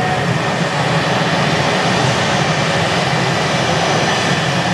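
Drag-strip jet engines running steadily, a loud even rush with a faint steady high whine above it.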